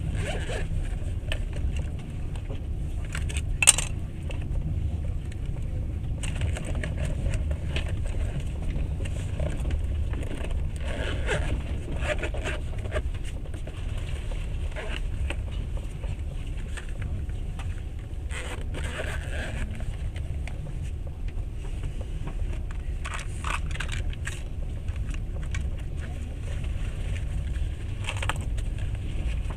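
Moving passenger train heard from inside the carriage: a steady low rumble of the running gear, with scattered rattles and clicks from the carriage, one sharp click about three and a half seconds in.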